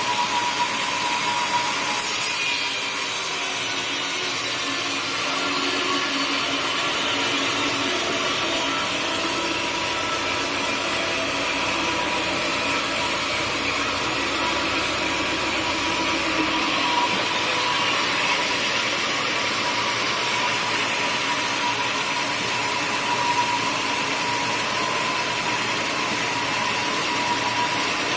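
Sawmill saw cutting through a teak log. The saw's steady running whine changes to a rougher cutting noise about two seconds in as the blade enters the wood. After about fifteen seconds the cut ends and the saw goes back to its steady whine.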